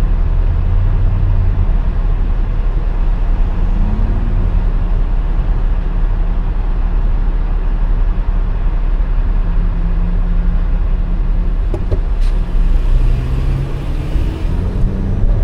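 Car driving on a city street: steady low road and engine rumble, the engine note shifting a little now and then.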